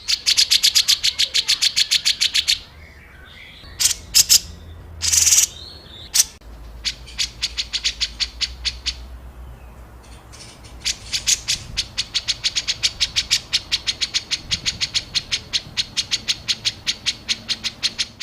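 Songbird calling in fast runs of sharp, harsh notes, about eight a second, with a few louder single bursts in between: the rapid-fire 'tembakan kasar' type of call used in masteran recordings.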